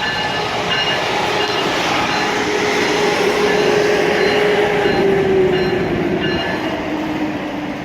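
Cooling blowers of an Amtrak Acela power car running while the train stands at the platform: a loud, steady rushing drone with a hum in it that sinks slightly in pitch near the end.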